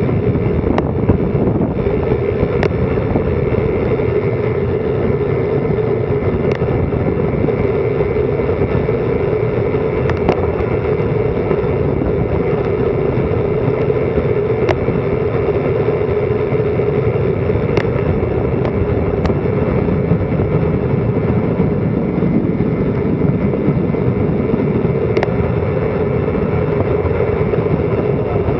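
Steady loud rush of wind over an action camera's microphone during a fast bicycle descent, with a few sharp ticks scattered through it.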